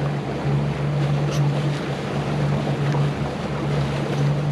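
Motorboat engine running steadily at cruising speed, a constant low hum, with water rushing past the hull and wind on the microphone.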